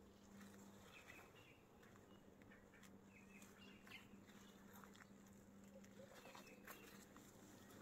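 Near silence: quiet garden ambience with a few faint, short bird chirps scattered through it and a faint steady hum underneath.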